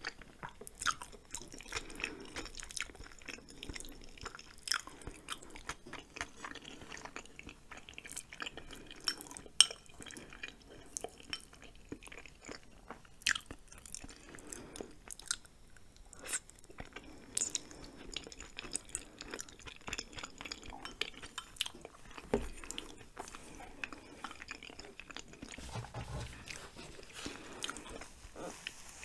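Close-miked chewing of cheesy spicy ramen and chewy rice cakes: wet mouth smacks and sharp sticky clicks scattered throughout.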